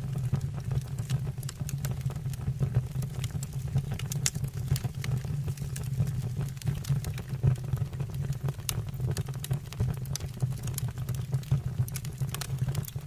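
Fire burning in a fireplace, with a steady low rumble and frequent irregular sharp crackles and pops.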